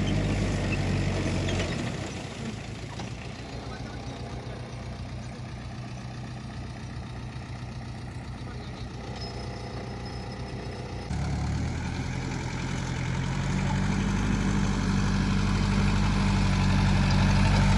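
Tractor engine running steadily, then falling back to a quieter rattle about two seconds in. About eleven seconds in the engine comes back strongly and grows steadily louder.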